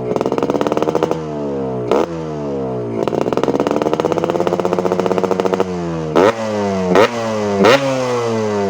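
Yamaha RX-King's two-stroke single-cylinder engine revving through a gutted ('bobokan') trumpet-type exhaust. The revs rise and hold twice, then three quick throttle blips near the end, the pitch falling back after each.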